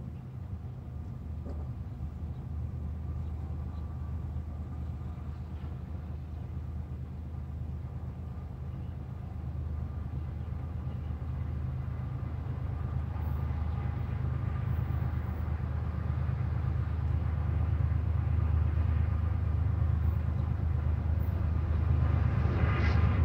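Approaching CN mixed freight train's diesel locomotives, a low, steady rumble that grows gradually louder as the train nears. A brighter, higher-pitched sound joins in near the end.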